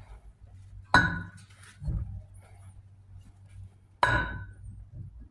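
Two sharp metallic clanks with a brief ring, about three seconds apart, with a softer thud between them, as steel splined parts of a Mack power divider are slid and knocked together.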